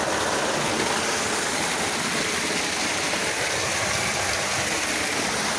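Steady, even rush of water from a small waterfall and the stream it feeds.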